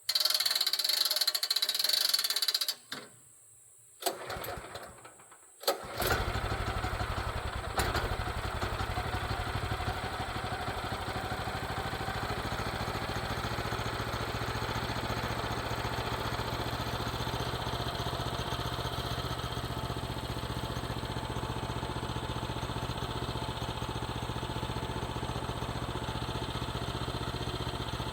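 Sawmill engine being cranked: a first try of a few seconds dies, a second short try follows, and about six seconds in it catches and settles into a steady idle.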